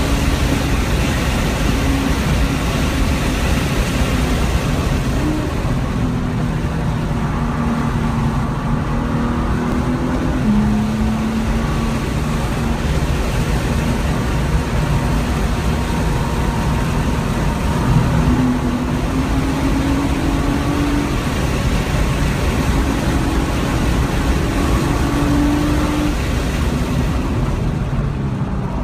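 2014 Nissan GT-R's twin-turbo V6 heard from inside the cabin at track speed, over steady tyre and wind noise. The engine note drops as the car slows for corners and rises in long pulls as it accelerates out of them.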